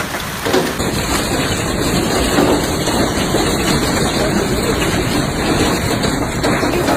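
Heavy thunderstorm rain and wind: a loud, steady rushing noise with no break.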